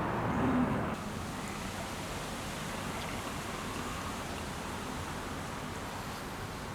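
Steady hiss of background noise with no distinct events, a little louder for about the first second and then even.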